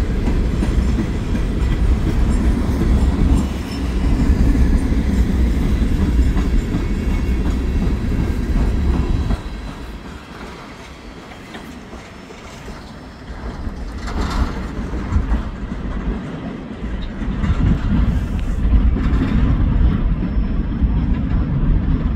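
Norfolk Southern coal train's hopper cars rolling past, a heavy low rumble with wheels clacking over the rail joints. The sound drops off about nine seconds in and builds up again from about thirteen seconds.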